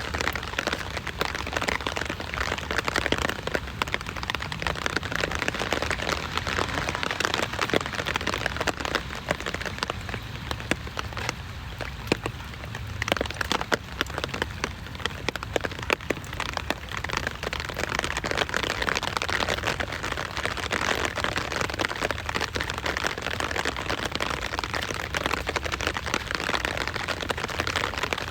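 Steady rain falling: a dense hiss of countless drops striking a surface, the individual drop hits heard as fine, irregular ticks.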